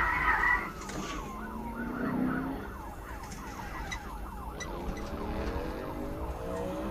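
Police siren: a falling wail about a second in, then a fast yelp sweeping up and down about four times a second, over a vehicle engine accelerating.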